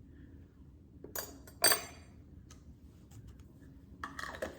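A teaspoon clinking twice against a bowl or jar about a second in, half a second apart, each clink ringing briefly, while chili garlic sauce is spooned into the sauce mixture.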